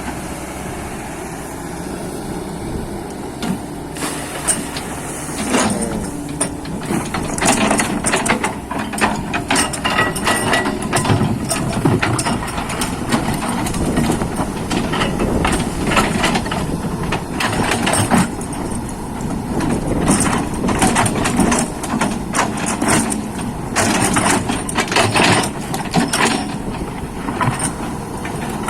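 Excavator's diesel engine running, steady for the first few seconds, then joined by a long run of irregular clanks and knocks as the machine works.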